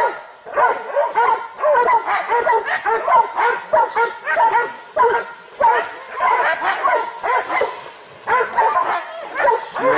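Several dogs barking and yelping without pause, short high calls overlapping one another: hunting dogs baying a cornered wild boar.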